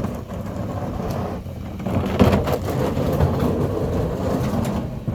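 Mack LR rear-loader garbage truck's diesel engine running loud under load, with scattered metal clanks and knocks from the truck's body. The sound drops off sharply just at the end.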